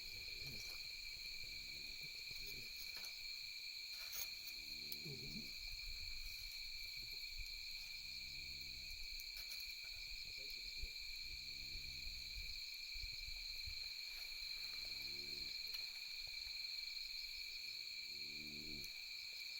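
Low hooting calls, about a second long and some falling in pitch, repeat roughly every three seconds over a steady high pulsing chorus of night insects. A campfire gives a few faint crackling pops, the sharpest about 11 seconds in.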